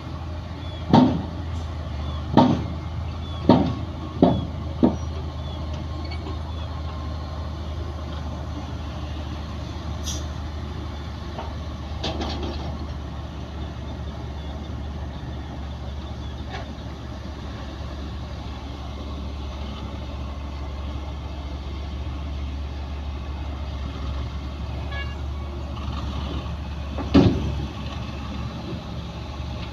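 Heavy diesel earthmoving machinery running steadily with a low drone. Five loud metallic bangs come about a second apart in the first five seconds, and one more comes near the end.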